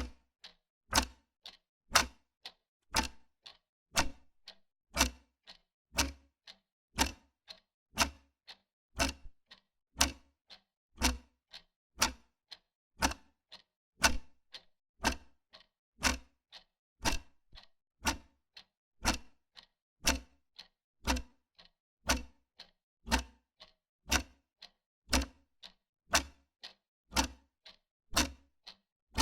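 Wall clock ticking steadily, about two ticks a second, alternating a slightly stronger and a lighter tick like a tick-tock.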